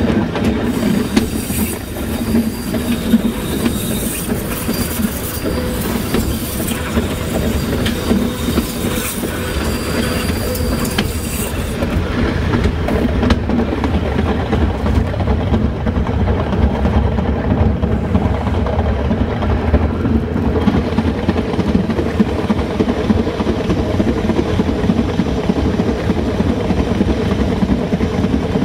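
Metre-gauge train running along the track, heard from its rear cab: a steady rumble of wheels on rail with scattered clatter over the rails. A thin, high wheel squeal comes and goes during the first twelve seconds or so, then fades, leaving the rumble.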